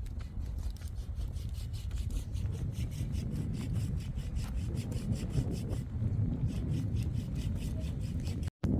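Hand saw cutting wood in quick, even back-and-forth strokes, with a brief break near the end.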